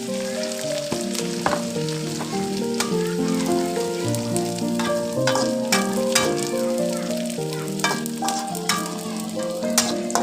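Food sizzling in a frying pan while a spatula stirs it, with frequent sharp scrapes and clicks of the spatula against the pan. Soft background music with held notes plays under it.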